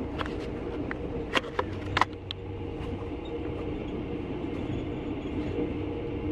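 Steady running hum and rumble inside a sleeper train carriage, with a few short sharp clicks or rattles about a third of the way in.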